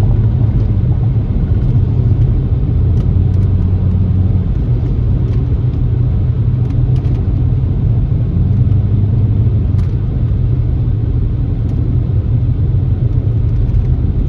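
Car driving slowly on a rough country road: a steady low rumble of engine and tyres, with the engine note rising and easing a little as the speed changes.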